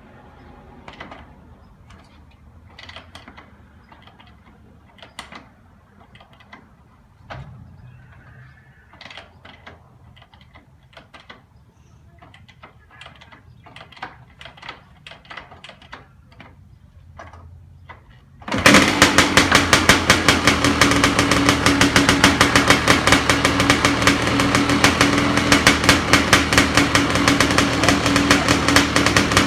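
Cold start of a Kawasaki KX500's single-cylinder two-stroke engine: a long series of kicks on the kickstarter, about one a second, until the engine catches about 18 seconds in and keeps running loud. It fired with the bike in gear.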